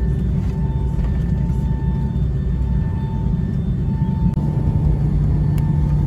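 Steady low rumble of a Boeing 757-200 airliner cabin, with faint background music from the safety video over it; the low hum settles into a steadier pitch about four seconds in.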